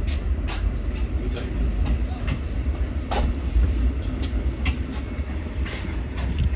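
Passenger train running into a station, heard from inside the carriage: a steady low rumble with irregular sharp clacks of the wheels over rail joints and points.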